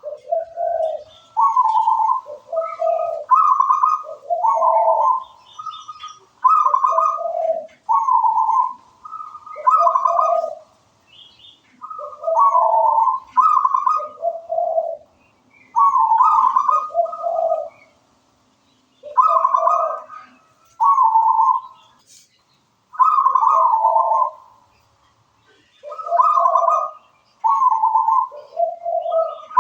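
Zebra dove (perkutut) of the local Javanese strain singing. It repeats its cooing phrase of several quick notes that step between a higher and a lower pitch, about one phrase every three seconds, with short pauses between.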